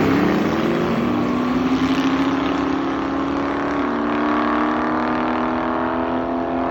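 Boss Hoss V8 motorcycle engines at full throttle accelerating down a drag strip, pitch climbing steadily with a drop in pitch about four seconds in, slowly fading as the bikes pull away.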